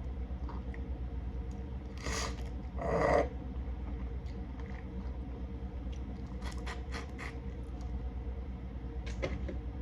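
Seafood shells being cracked and picked apart by hand: two louder crunching scrapes about two and three seconds in, then scattered sharp clicks, over a steady low hum.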